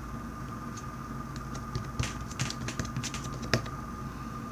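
Small, scattered clicks and sticky pops of butter slime being worked in the hands, over a steady low hum.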